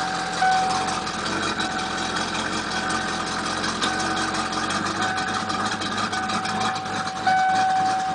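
1994 Ford Mustang GT's 5.0-litre V8 idling in gear, running rough with what the owner takes for a misfire. A high steady tone comes and goes over the engine note, and the engine's pitch shifts about halfway through.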